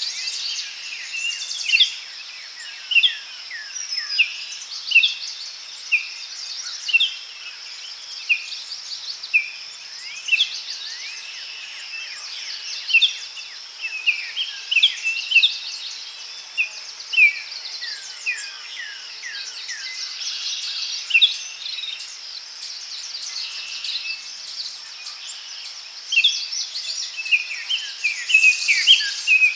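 Daytime forest ambience: several songbirds giving short, sharp chirps and calls, many of them quick downward notes, over a steady high-pitched insect drone. The chirping thins out in the middle and picks up again near the end.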